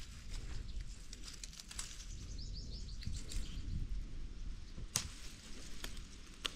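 A bird calls a quick run of about eight short, high chirping notes lasting about a second, a couple of seconds in, over a low outdoor rumble; two sharp clicks come near the end.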